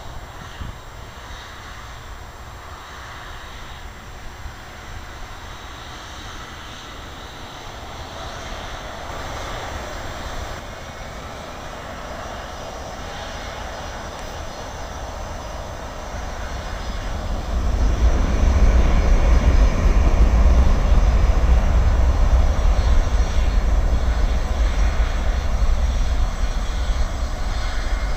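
Airliner's engines, a steady whine and rumble that builds slowly, then a little past halfway swells sharply into a loud, deep rumble that holds.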